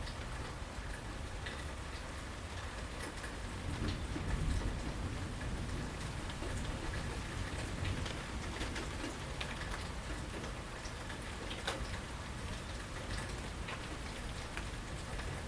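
Steady rain falling on and around a porch, with individual drops ticking sharply. A low rumble swells briefly about four seconds in.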